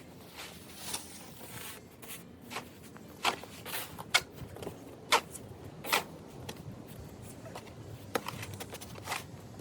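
Footsteps: a string of sharp, uneven steps roughly a second apart, over faint background noise.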